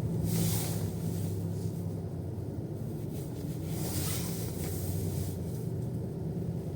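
Steady low engine and road drone heard from inside a moving car's cabin, with two brief hissing swells, about half a second and four seconds in, like passing traffic.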